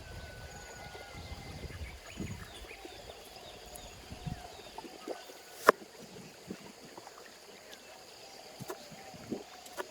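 Outdoor ambience: a low rumble that drops away about halfway through, faint high chirps, and scattered sharp taps, one much louder than the rest just after halfway.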